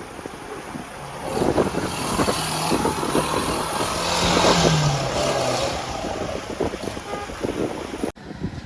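An off-road 4x4's engine revving under load, its pitch holding and then falling about five seconds in, with knocks and rattles over it. The sound cuts out briefly near the end.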